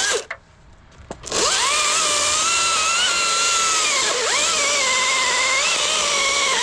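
Chainsaw revving up about a second in and running at high speed, its pitch dipping briefly and recovering about four seconds in, as if under load in a cut.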